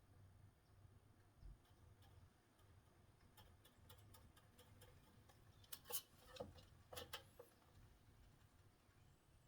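Near silence with a scattering of faint sharp clicks and light taps through the middle, the loudest in two small clusters a little past the middle, typical of small handling noises while boards are measured and marked.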